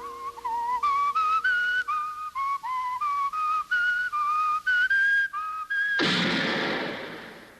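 A whistled tune of short, clear notes, followed about six seconds in by a loud sudden bang that fades away over about a second and a half.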